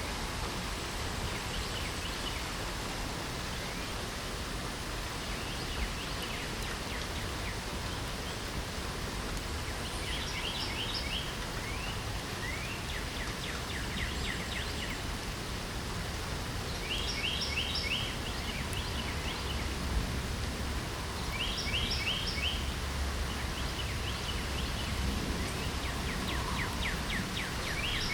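Steady hiss of light rain, with a songbird singing short, quick trilled phrases every few seconds, starting about a third of the way in.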